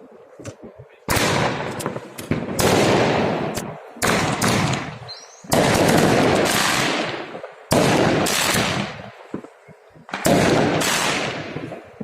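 New Year fireworks salute: aerial shells bursting in loud booms, six of them a second or two apart, each fading away over a second or so.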